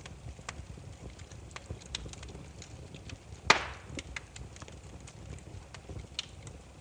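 Burning firewood crackling: scattered sharp snaps over a low steady rumble of the fire, with one loud pop about three and a half seconds in that trails off in a short hiss.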